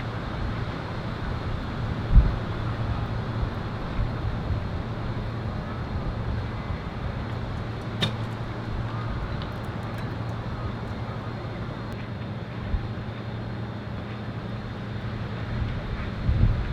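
Wind buffeting the microphone outdoors over a steady low hum. There are a couple of dull thumps and one sharp click about halfway through.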